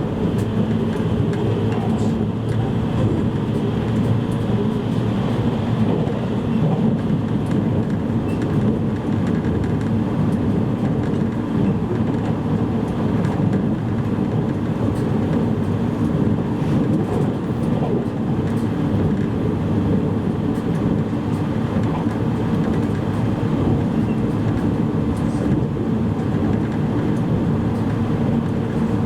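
Interior running noise of a JR East E653 series electric train at speed: a steady rumble of wheels on rail and car body, heard from inside the passenger car.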